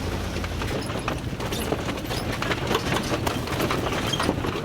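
Van driving over a rough dirt road: a low engine drone under constant irregular rattling and knocking from the bumpy surface.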